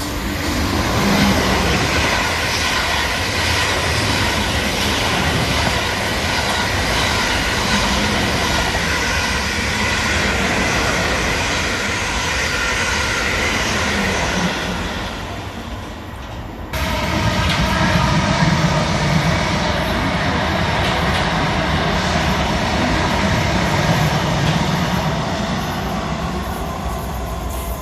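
Electric multiple-unit passenger train running through a station: a loud, steady rush of wheels on rail with whining tones over it. It cuts off abruptly about two-thirds of the way through, and another train's passing takes over.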